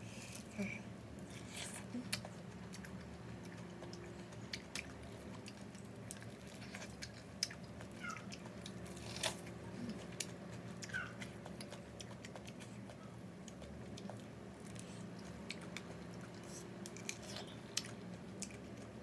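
Close-up chewing of juicy pineapple flesh: scattered wet crunches and mouth clicks, over a faint steady low hum.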